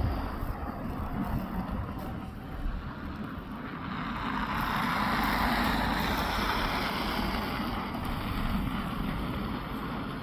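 Diesel locomotives rumbling low, with wind buffeting the microphone. A broad rushing noise swells about four seconds in and fades again after about eight seconds.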